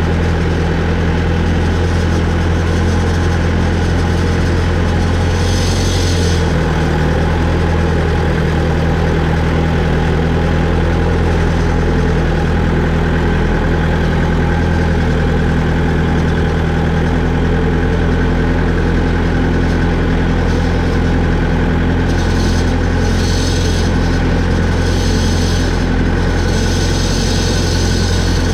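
A vehicle engine running steadily at an even speed, with a brief hiss about six seconds in and several more short hisses near the end.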